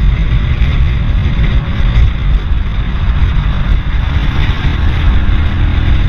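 Heavy wind buffeting on a moving microphone while riding along a road, a loud fluctuating low rumble with road and traffic noise under it.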